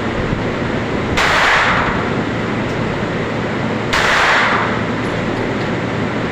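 Two gunshots about three seconds apart, each starting sharply and fading within half a second, over a steady loud noise.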